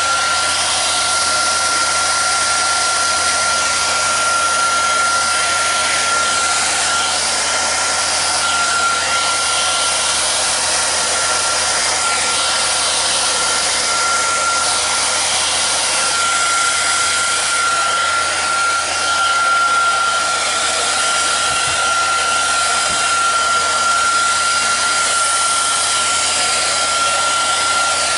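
Hair dryer running steadily, a rush of air with a steady high whine from its motor.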